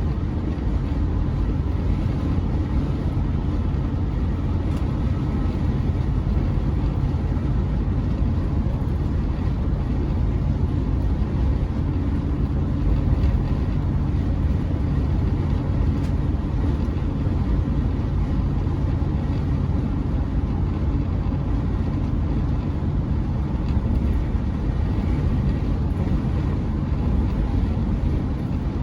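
Chevrolet C10 pickup driving at a steady speed: a steady low rumble of engine and road noise, heard from inside the cab.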